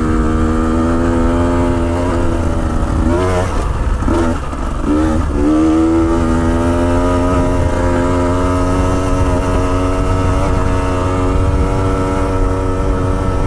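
Motorcycle engine running on a steep rocky descent, holding a steady note. Between about three and five seconds in, its pitch wobbles and dips briefly with a few throttle changes.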